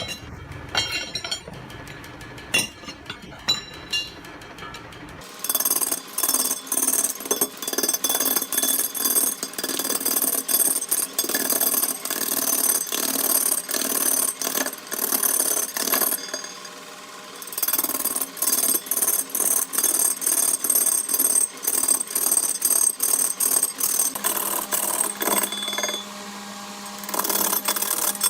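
Rapid mechanical clattering and rattling of a power tool working wood. It gets louder and busier about five seconds in, with a short lull past the middle.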